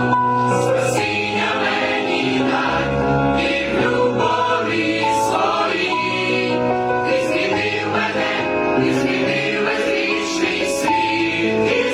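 A choir singing a Ukrainian Christmas carol in several parts, with long held notes.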